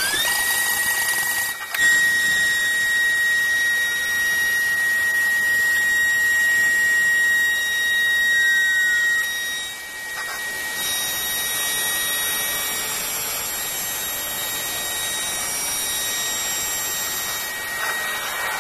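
Spindle of a CNC glass processing centre running at speed, a steady high-pitched whine over a constant hiss as the tool works the glass. The hiss drops briefly about two seconds in and again about ten seconds in.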